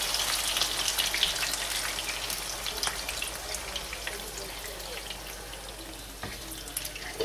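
Chicken thighs frying in a pan, a steady sizzle with small crackles that dies down gradually as single cream is poured in over them.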